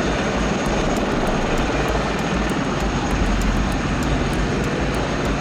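Military helicopters in flight: steady rotor and turbine engine noise.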